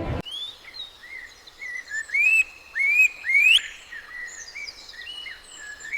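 A bird singing a run of clear whistled notes, many sweeping upward in pitch, with the three loudest about two, three and three and a half seconds in.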